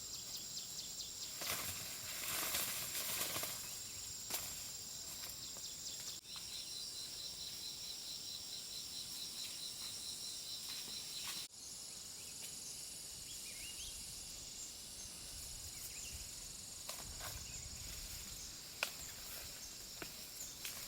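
Outdoor insects chirping steadily in high-pitched tones, with a fast pulsing chirp through the middle stretch. A short rustle comes a couple of seconds in, and a few sharp clicks near the end.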